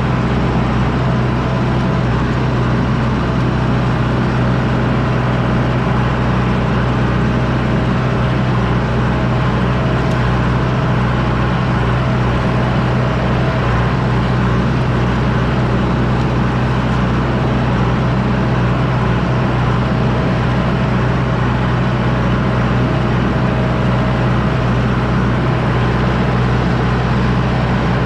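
John Deere 6110D tractor's diesel engine running at a steady pitch while pulling a disc harrow.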